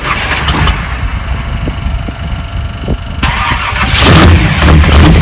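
Built race truck's engine starting up about three seconds in, then running loud with a steady low note.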